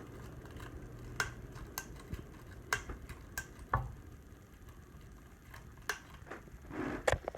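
Harbor Breeze Ocracoke ceiling fan's low motor hum, which fades out about two seconds in. Scattered light ticks and clicks follow every second or so.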